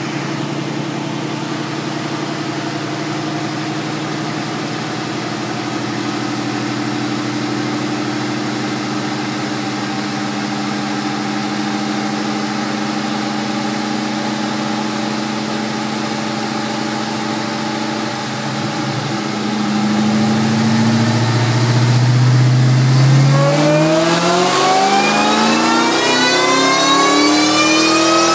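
Supercharged 4.6-litre DOHC V8 from a 2003 Mustang Cobra running under load in gear on a chassis dyno. It holds a steady engine note for about eighteen seconds, then gets louder as the throttle opens around twenty seconds in, and climbs steadily in pitch through a full-throttle pull to the end.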